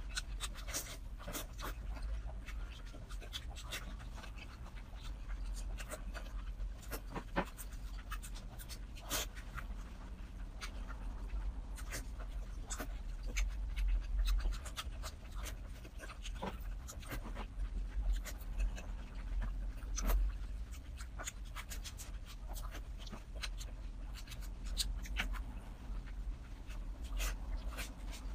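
Close-up wet chewing and lip-smacking of a person eating soft, fatty braised pork belly: many short sharp mouth clicks and smacks at irregular intervals, over a steady low hum.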